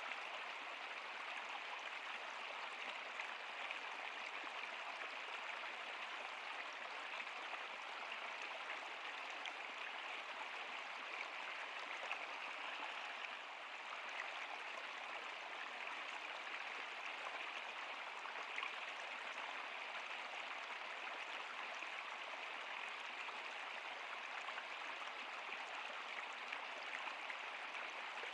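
River or stream water flowing, a steady rushing and splashing with no breaks.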